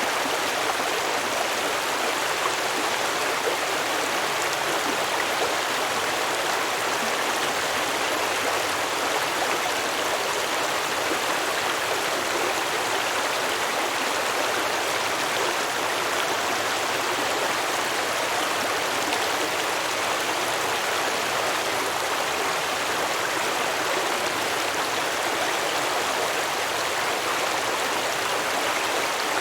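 Stream water flowing and babbling over rocks, a steady rushing with no breaks.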